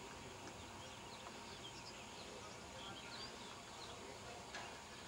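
Faint birdsong: scattered short high chirps over a steady low outdoor background noise, with one soft click near the end.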